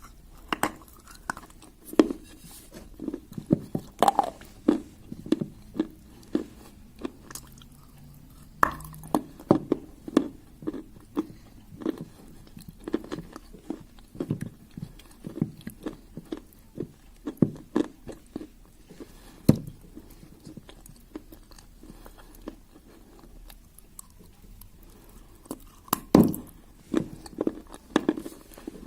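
A person biting and chewing pieces of dry clay close to the microphone: irregular crisp crunches with chewing in between, a few bites louder than the rest.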